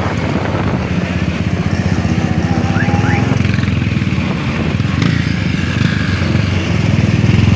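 Motorcycle engine running, a steady low pulsing that grows a little stronger near the end.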